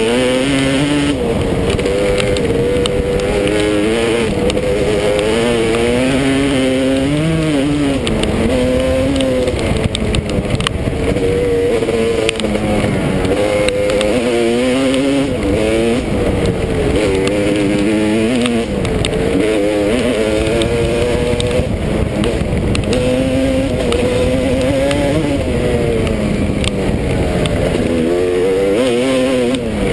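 Motocross dirt bike engine being ridden, its pitch rising and falling every second or two as the throttle is opened and shut.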